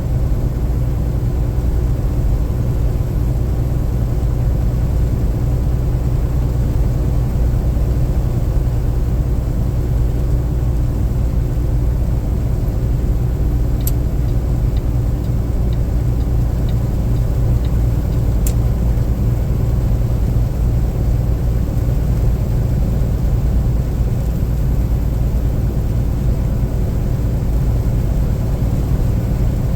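Car driving on a rain-wet road: a steady low rumble of engine and tyres, with two sharp clicks a few seconds apart about halfway through.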